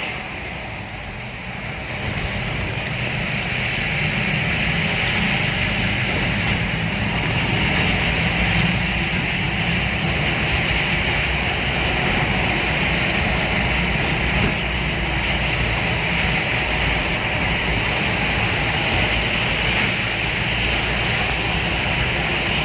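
A train running steadily through a tunnel: a continuous rumble with a strong hiss on top, getting a little louder about two seconds in.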